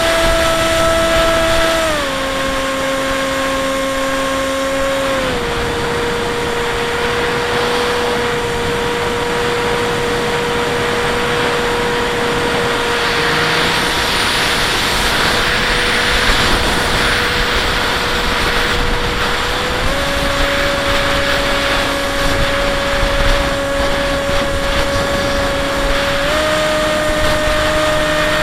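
Bixler 1.1 RC plane's electric motor and propeller whining in flight, with wind rushing over the onboard microphone. The pitch steps down twice in the first few seconds as the throttle is eased back, holds steady, then steps up twice in the last third as the throttle is opened again.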